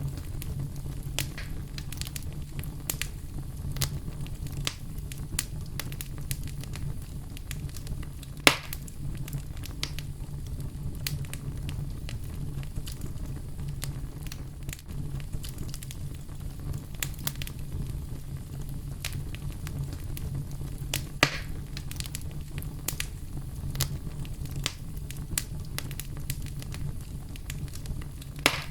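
Campfire burning with a steady low rumble and frequent small crackles, and three louder pops spread through it.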